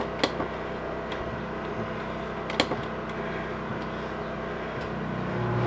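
Steady hum with a few sharp clicks. Near the end the RV's 13,500 BTU rooftop air conditioner comes on and its blower noise rises.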